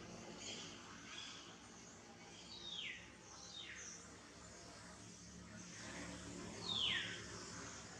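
Wild birds calling: three short high whistles that each slide down in pitch, the loudest near the end, with faint chirping higher up over a steady outdoor background.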